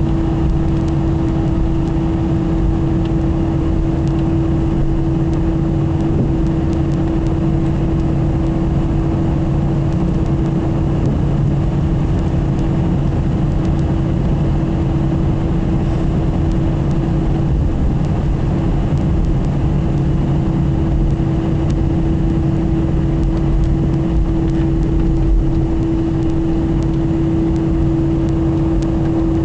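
Airbus A320 jet engines running at a steady setting: a constant loud drone with a steady low hum and a steadier tone above it, unchanging throughout.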